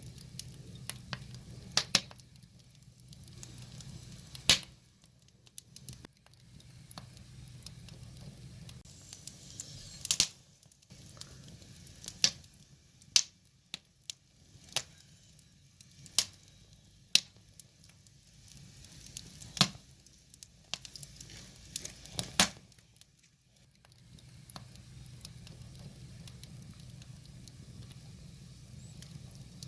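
Wood fire crackling, with sharp pops and snaps at irregular intervals over a low rumble that comes and goes.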